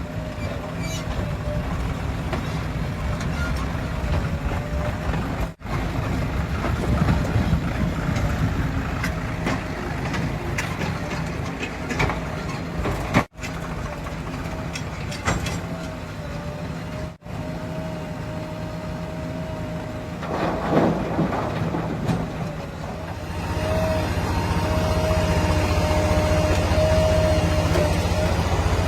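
Heavy diesel machinery engines running steadily under a wavering high whine, broken off briefly three times, and growing louder and deeper near the end.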